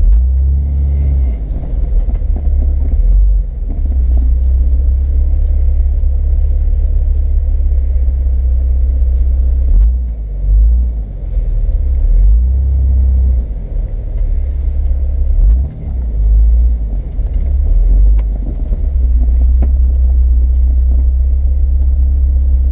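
Off-road 4x4 driving a rough, bouncy trail: a loud, low engine and drivetrain rumble that rises and falls, dipping briefly several times.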